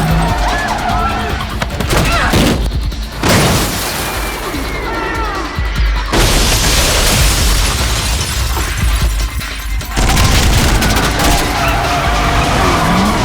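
Action-film music mixed with loud chase sound effects: booms and crashing impacts, with a stretch of dense noise through the middle.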